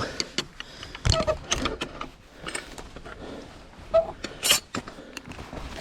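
A hiker's footsteps and camera handling on a rough path: irregular scuffs and clicks, a little louder about a second in and again about four seconds in.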